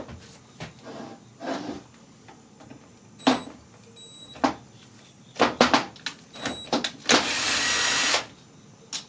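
Tools and small engine parts being handled: scattered clicks and sharp knocks, a quick cluster of them a little past halfway, then a burst of hiss lasting about a second.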